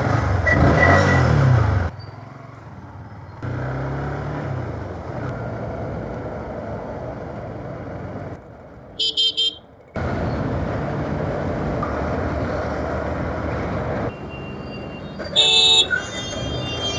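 Motor-vehicle engine and road traffic, with a rising and falling engine pitch in places and short honks of a vehicle horn about nine seconds in and again near the end. The sound changes abruptly several times.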